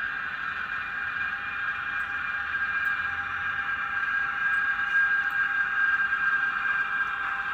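Shinkansen traction-motor and inverter running sound from a LokSound 5 micro DCC sound decoder, played through the small speaker of a KATO N-gauge E3 series model. It is a steady whine of several held tones, swelling a little in the middle.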